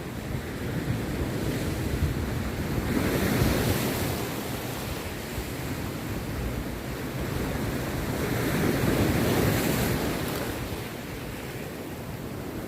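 Rough sea waves breaking on a beach: a steady wash of surf that swells into two big breakers, about three seconds in and again about nine seconds in.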